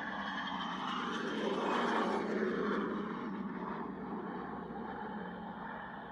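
Aircraft flying past: engine noise swells to its loudest about two seconds in, with falling pitch glides, then fades away.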